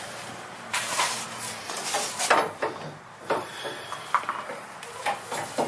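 A series of separate metal clanks and knocks as a Jeep Wrangler JK's rear coil spring and suspension parts are worked free and handled.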